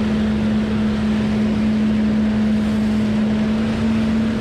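A watercraft's engine running steadily under way, a constant drone at one pitch, with wind and water rushing past.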